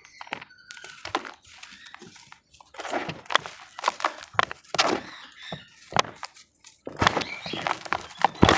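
Damp cement crumbling and breaking apart: a run of crackling snaps and soft crunches in irregular clusters with short pauses between, the loudest break near the end.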